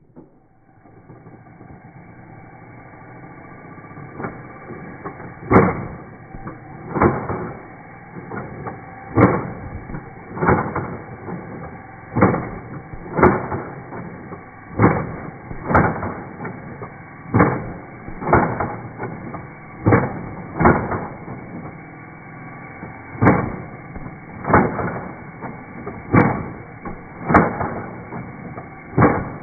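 Slowed-down slow-motion audio of a Nerf N-Strike Elite Hailfire blaster firing. A low, steady motor drone builds over the first few seconds, then deep thuds come about once every second to second and a half, each one a dart shot.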